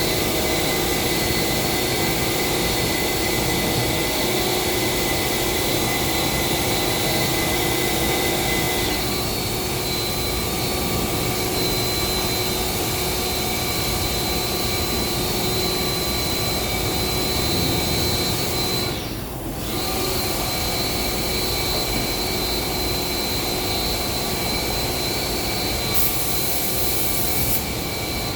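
Spray-painting equipment running steadily: a continuous drone with a high whine through it. It drops out briefly about two-thirds of the way through, then resumes.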